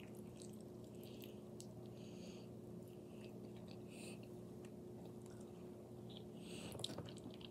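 A person chewing a mouthful of shrimp close to the microphone, with soft mouth clicks and wet chewing noises, over a steady low hum. A sharper click comes near the end.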